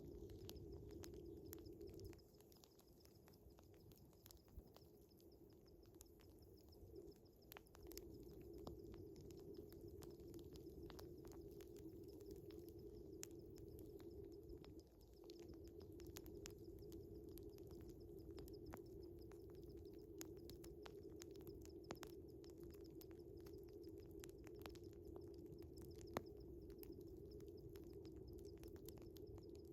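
Faint wood fire crackling with scattered small pops, one louder pop near the end, over a steady chirring of crickets. Beneath them a steady low drone fades out for several seconds near the start and dips again briefly midway.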